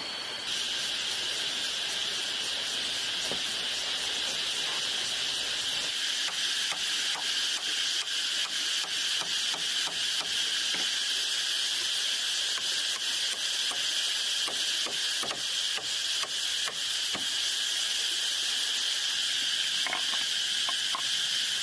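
Insects buzzing in a steady high-pitched drone, with a run of many quick sharp clicks from about six seconds in until about seventeen seconds.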